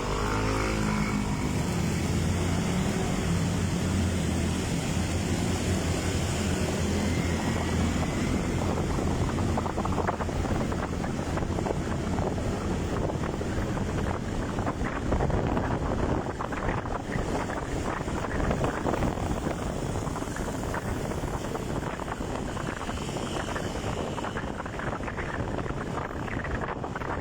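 Motorcycle engine pulling away, its pitch rising in the first couple of seconds, then running steadily while riding. Wind buffets the microphone, growing stronger over the second half.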